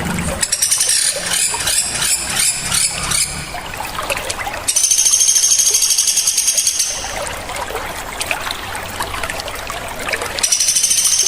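Small songbirds calling sharply: a rapid run of high, chattering notes, then long, shrill, very high trills twice, over a steady background hiss like trickling water.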